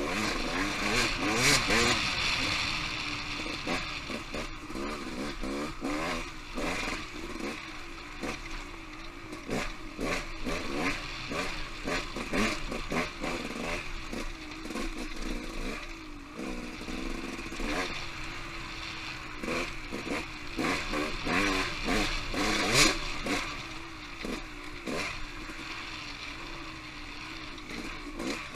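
Off-road motorcycle engine revving up and down while being ridden on a singletrack trail, with frequent clattering knocks.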